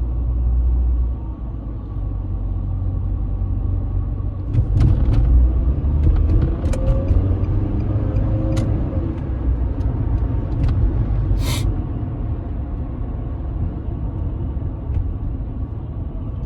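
Steady low road rumble of a car being driven, with a few light clicks and a brief hiss about eleven seconds in.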